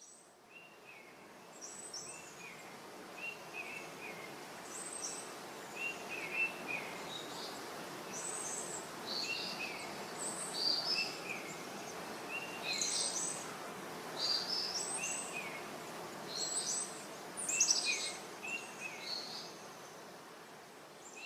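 Songbirds singing outdoors: many short chirps and brief trilled phrases repeating every second or so, some higher and some lower, over a steady background of outdoor noise.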